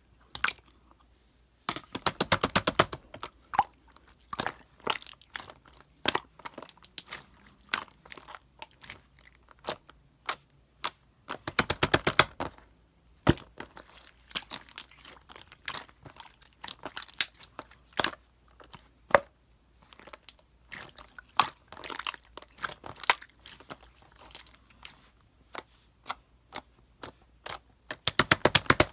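Close-up crunching and crackling of something crisp: irregular runs of sharp clicks, packed densely in a few spells, with short quiet gaps between.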